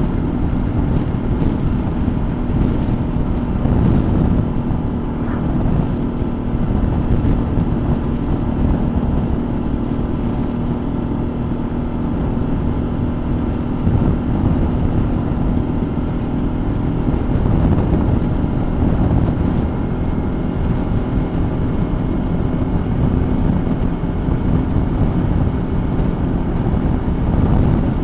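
Suzuki V-Strom motorcycle engine running at a steady cruise, with wind buffeting the microphone.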